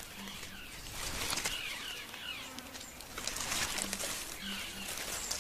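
Outdoor bush sound with birds calling in repeated short downward-sliding notes, a low hooting call in short pairs, and dense crackling and rustling of branches and leaves that picks up about three seconds in.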